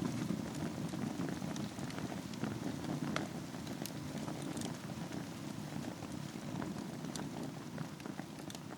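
Wood fire in a fireplace burning over a bed of embers: a steady low rush of flame with scattered sharp crackles and pops from the burning wood.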